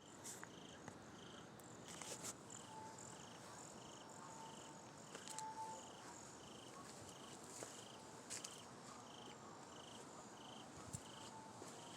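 Faint, steady chirping of a cricket, a short high chirp repeating evenly about three times every two seconds, with scattered faint clicks.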